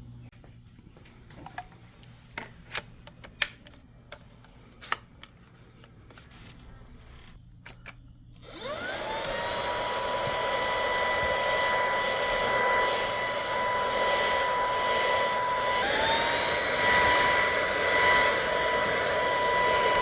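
A few sharp clicks and knocks. About halfway through, a cordless stick vacuum's brushless motor spins up with a rising whine and then runs steadily with a high whine and rushing air. Near the end the whine briefly drops and climbs back.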